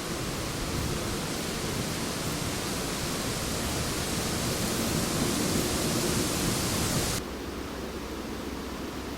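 Wind in a forest, a steady rushing hiss through the trees, which cuts abruptly about seven seconds in to a quieter, duller hush.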